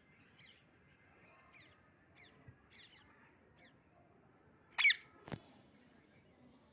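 Parrot giving soft, repeated short chirps, about two a second, then one loud squawk nearly five seconds in, followed by a brief sharp click.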